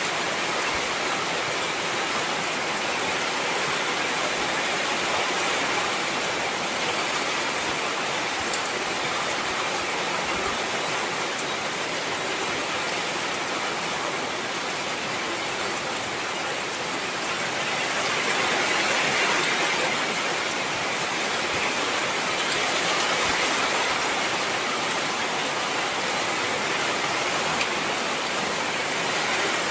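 Heavy rain falling steadily, a dense even hiss that swells slightly for a few seconds partway through.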